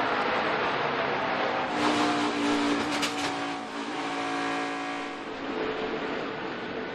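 NASCAR stock cars' V8 engines running at speed on the track, with a car passing close by about two seconds in and fading away after about five seconds.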